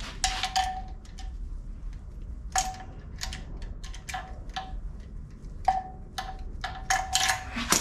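Loose metal bolts clinking as they are handled: a string of irregular sharp clinks, many with a brief metallic ring, bunching up near the end.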